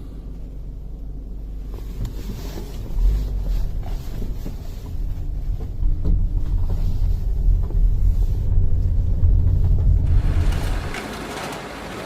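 Road and wind noise of a moving car, heard from a dashcam inside it: a deep, even low noise that grows louder about three seconds in and drops away suddenly near the end, when a hissier noise takes over.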